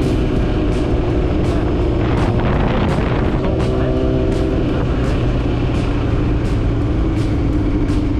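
Motorcycle engine running steadily while riding, under a heavy low wind rumble on the microphone.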